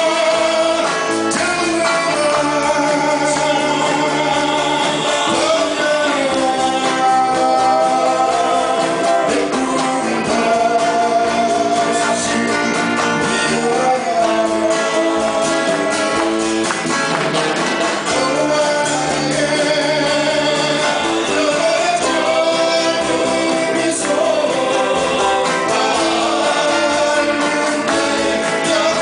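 Live band playing a Korean pop song, a singer holding long sung notes over guitar accompaniment.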